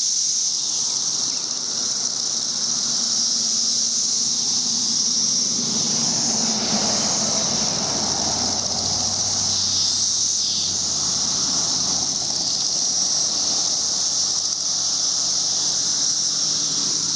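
Massed chorus of periodical cicadas, a loud, steady, high-pitched screaming drone.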